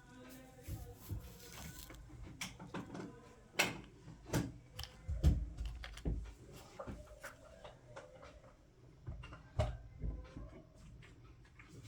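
Kinetic sand being handled and worked, with irregular soft scrapes and taps. A few louder knocks and dull thumps come in the middle and again near the end.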